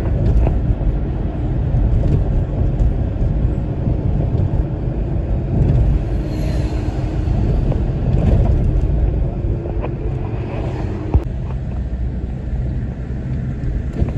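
Highway driving: a steady low road-and-engine rumble, with a faint steady drone that stops about eleven seconds in.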